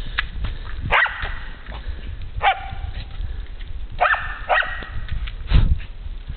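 A dog barking about four times in short, sharp barks, which the owner takes for a jealous dog. There is a low thump near the end.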